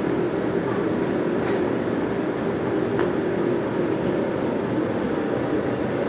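Plastic bag cutting machine for HDPE and PE film running steadily with a constant hum, with a few faint clicks from its mechanism.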